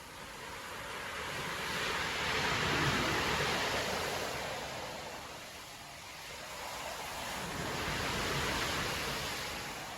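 Storm-driven sea waves breaking and washing on a beach, with a rushing hiss that swells and eases twice: one surge peaks about three seconds in, another near the end.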